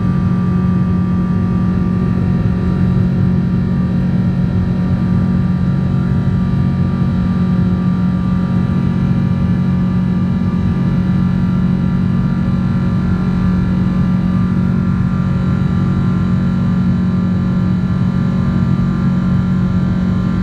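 Steady cabin noise of a jet airliner in flight after take-off: a constant engine drone with a strong low hum and a fainter high whine.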